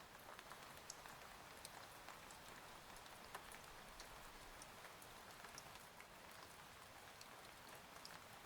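Faint, steady rain, with scattered small drop ticks falling irregularly over an even hiss.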